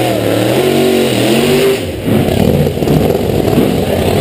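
Supercharged V8 drag-car engine revving hard: its pitch slides down and back up, then about two seconds in it turns louder and rougher.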